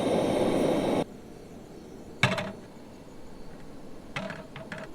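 A loud steady hiss cuts off sharply about a second in. Then metal cookware on a camp stove clanks once, with a short ring, and clinks several times in quick succession near the end.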